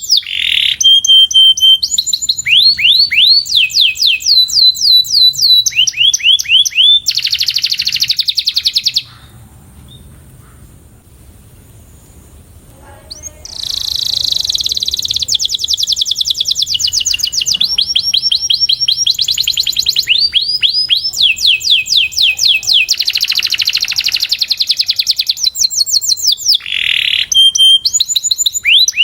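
Canary singing: fast trills of quickly repeated sweeping notes, one rolling phrase after another. The song breaks off for about four seconds partway through, then starts up again.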